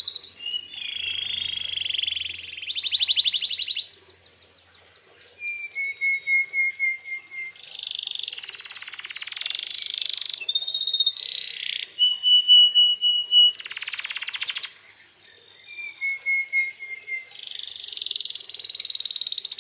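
Domestic canary singing, a string of phrases that change every second or two: fast high trills, buzzy rattles and runs of quick repeated notes, with two short breaks.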